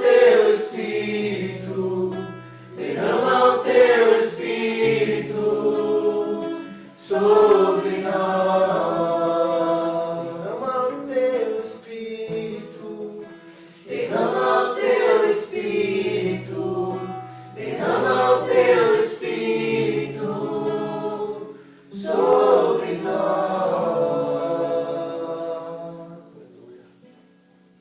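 Acoustic guitar strummed in chords while a group sings a slow worship song, in phrases of about four seconds; the music fades out near the end.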